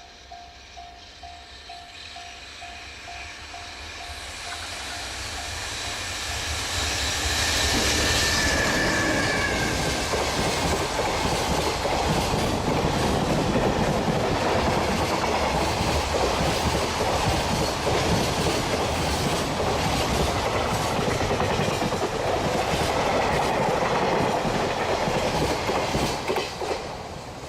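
A freight train approaches and passes close by, with wheels clattering over the rail joints. It builds from faint to loud over the first several seconds, and a brief falling whine is heard as it comes level. The clatter stays loud, then drops away suddenly near the end as the last wagons pass. A rapidly repeating bell-like tone, about two strikes a second, is heard at the start before the train drowns it out.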